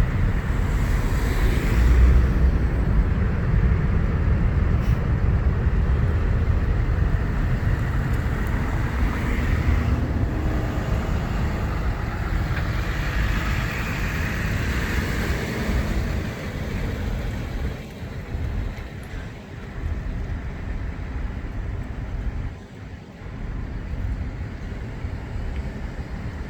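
Jet airliner rumbling as it lands and rolls out: a steady, deep noise that slowly fades and grows uneven over the last ten seconds.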